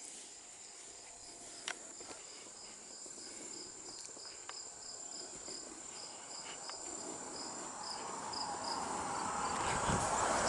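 Crickets chirping in an even rhythm of about three short chirps a second, over a steady high-pitched insect trill. In the last few seconds a vehicle can be heard approaching, growing steadily louder.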